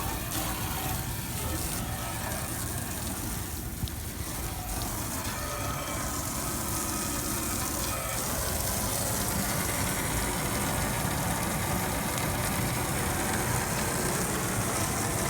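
Rooftop HVAC unit running with a steady machine hum, with a hiss of running water from a hose over it that grows louder about halfway through.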